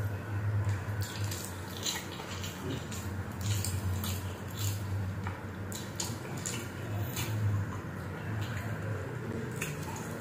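Close-miked eating sounds: wet chewing, smacking and clicks as chicken adobo meat is bitten and pulled from a chicken leg quarter, over a low steady hum.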